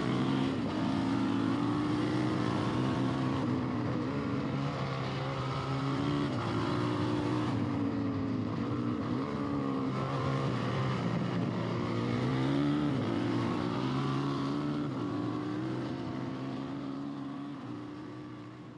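Engine running continuously, its pitch rising and falling a little as it revs, then fading out at the very end.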